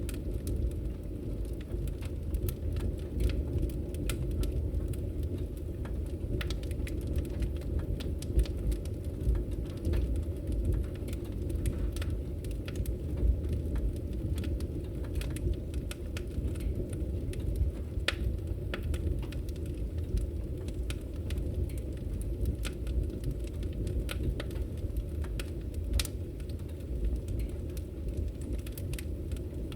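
Wood fire burning in a fireplace: a steady low rumble of flames with frequent irregular crackles and pops, a few of them sharper than the rest.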